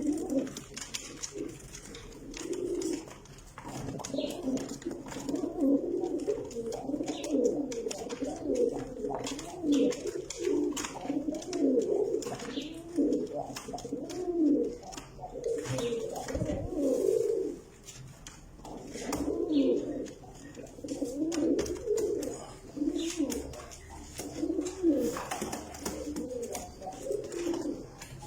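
Iraqi tar pigeons, a cooing breed, cooing over and over in long wavering phrases with short breaks between them.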